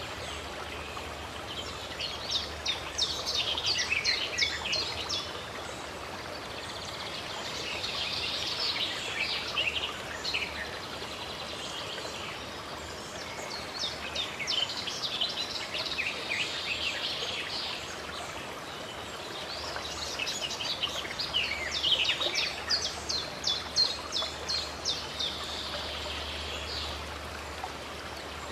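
Birds singing over the steady rush of running water, with rapid chirping trills coming in three spells.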